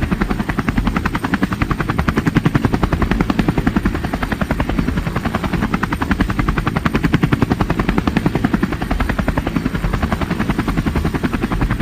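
Helicopter in flight: the main rotor's blades beat in a steady, rapid, even rhythm over the engine and turbine noise.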